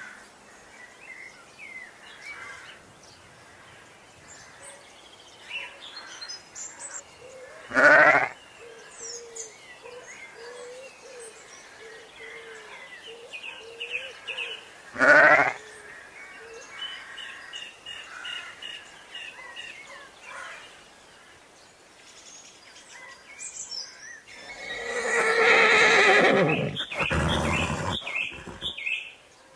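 An animal calling: two short, loud calls about seven seconds apart, then a longer drawn-out call near the end, with birds chirping faintly throughout.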